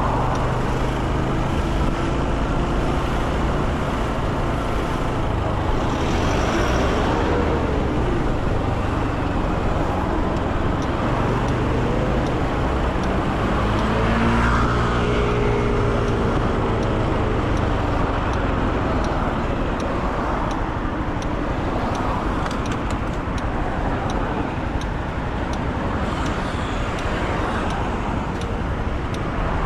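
Motorcycle engine running while riding through city traffic, with steady road and wind noise and engine notes that rise and fall a few times, most clearly around the middle.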